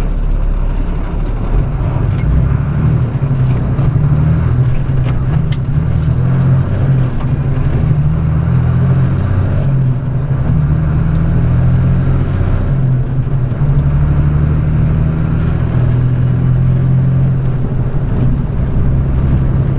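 Flatbed straight truck's engine and road noise while driving, a loud, steady low drone whose pitch shifts slightly now and then.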